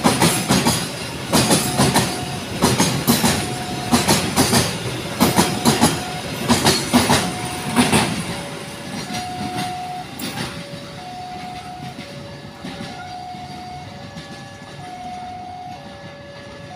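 A train passing, its wheels clattering over the rail joints in repeated clusters, dying away about eight seconds in. A two-tone level-crossing warning alternates steadily underneath and stands out once the train has gone.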